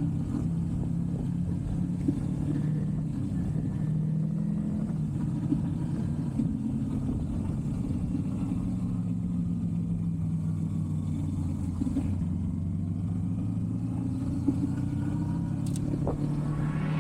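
Kawasaki Versys 300X parallel-twin motorcycle engine running steadily under way, its note drifting slightly up and down with the throttle.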